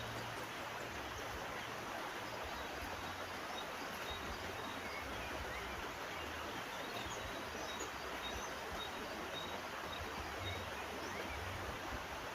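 Steady rush of a flowing river, with a few short, faint bird chirps scattered through it.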